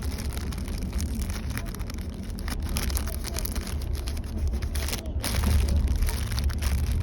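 Low steady rumble of a moving passenger train, with dense crackling and clicking from objects being handled close to the microphone as ASMR triggers.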